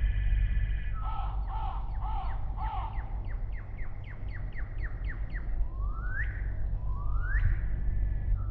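Birds calling: a crow caws at the start, then a run of short notes speeds up, and two rising whistled notes follow. A steady low rumble runs underneath.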